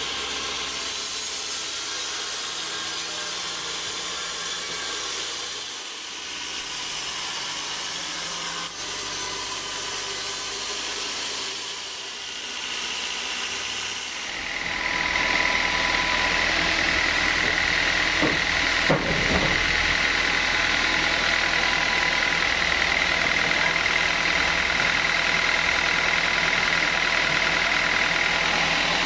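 Sawmill saw running on teak logs: a steady mechanical drone with hiss that grows louder about halfway through, when a steady high whine sets in, with a couple of brief knocks a few seconds later.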